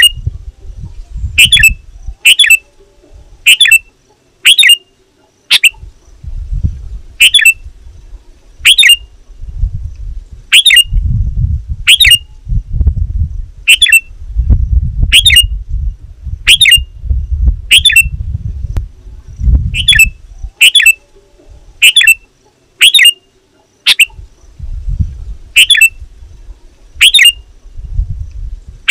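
Sooty-headed bulbul (kutilang) giving loud, short, sharp calls over and over, roughly one every second or so. A low rumble comes and goes underneath.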